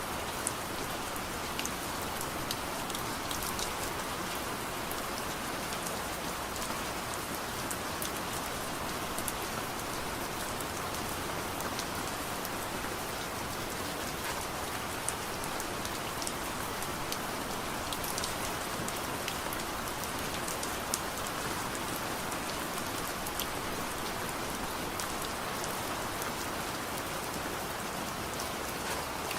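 Steady soft rain falling, with scattered small sharp crackles from a wood fire in a fireplace.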